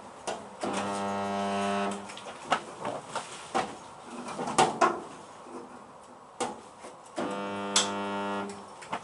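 Two bursts of an electric welder's steady mains hum, each about a second long, with clicks and knocks of metal being handled between them.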